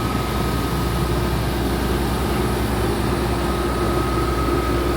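A crane's heavy diesel engine running steadily, with a constant drone and a thin steady whine above it.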